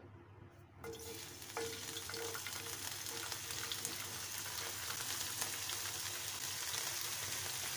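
Broccoli florets dropped into hot oil in a nonstick frying pan, sizzling; the sizzle starts about a second in and then holds steady.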